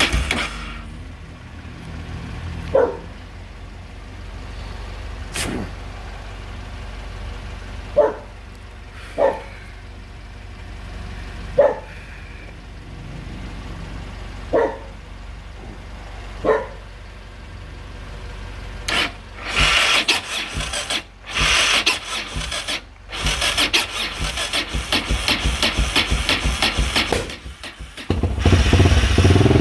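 Yamaha XT600E single-cylinder engine being started with difficulty: several short bursts a few seconds apart, then a longer spell of fast, even cranking broken by brief pauses, until the engine catches near the end and runs.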